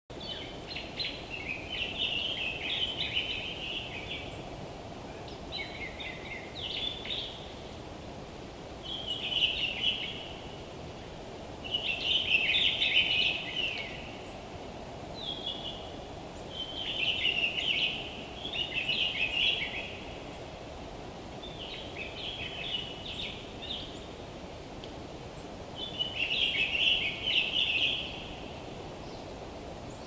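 A songbird singing in short, chattering phrases, about nine of them, each a second or two long and a few seconds apart, over steady low background noise.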